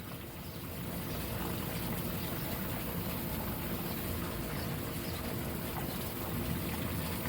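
Steady low rush of water and a running pool pump while the pool is being vacuumed, a little louder from about a second in.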